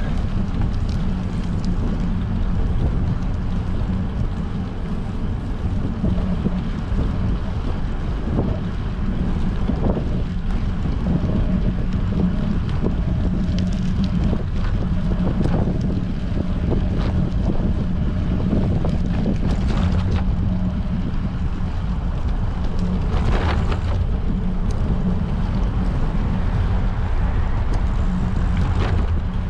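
Wind buffeting a bicycle-mounted GoPro's microphone while riding in strong wind, a steady low rumble.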